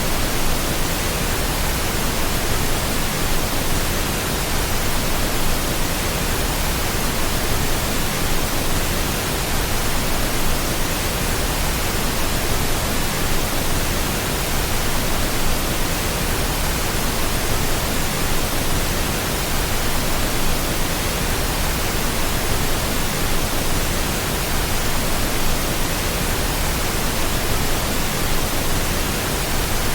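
Steady pink noise: a constant, even hiss-like rush with no change in level or character.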